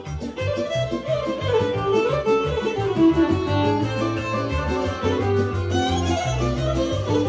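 Serbian mešano kolo folk dance tune played by a band, a violin leading with a quick running melody over bass and a fast, even beat.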